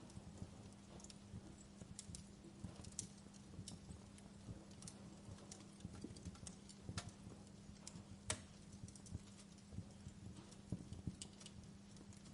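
Wood fire crackling in a fireplace: irregular small pops and snaps, one sharper pop about eight seconds in, over a low steady hum and the soft rush of the flames.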